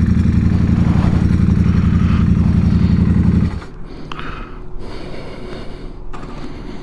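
Motorcycle engine running steadily with a low, evenly pulsing note. About three and a half seconds in the sound drops sharply, leaving a much quieter low rumble.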